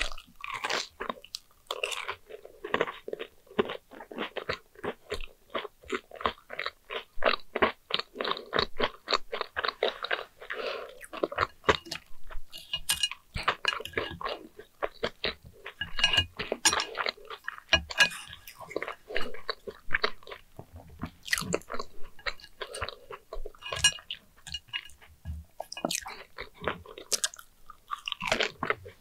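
A person chewing crisp fried sweet potato slices: a dense run of crunching bites in the first half, thinning out into slower chews later.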